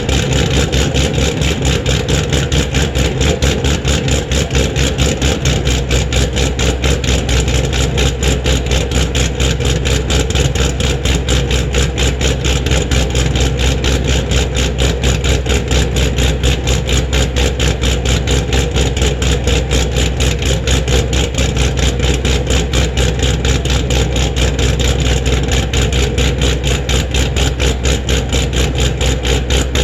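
2014 Camaro SS's 416 LS3 V8 idling steadily with an even exhaust pulse, still warming up after a cold start.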